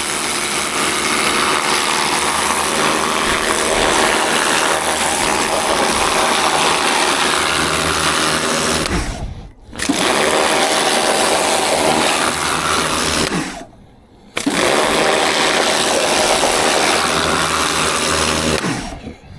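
Electric pressure washer running and spraying water. Its motor stops briefly twice, about halfway through and again a few seconds later, as the trigger is let go, then starts again, and it winds down near the end.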